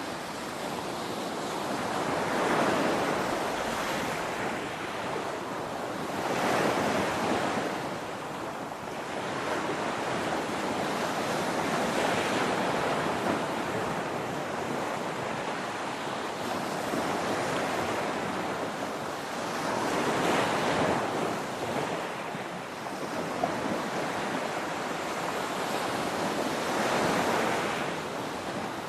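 Ocean surf: waves breaking and washing in one after another, rising and falling every few seconds over a steady rushing hiss.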